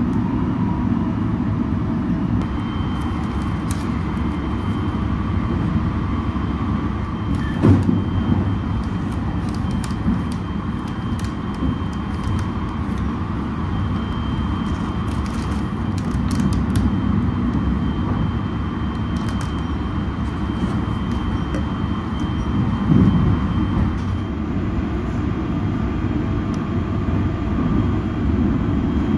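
Steady low rumble of the Sunrise Express 285-series sleeper train running, heard from inside the carriage, with a few faint clicks and two brief thumps, about 8 and 23 seconds in.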